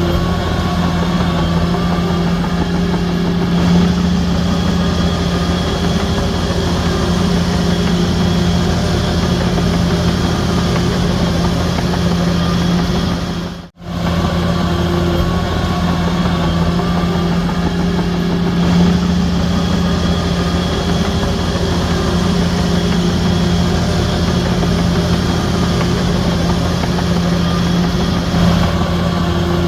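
Heavy diesel engine of a Shantui DH17C3 crawler bulldozer running steadily with a deep drone. The sound drops out for an instant about halfway through.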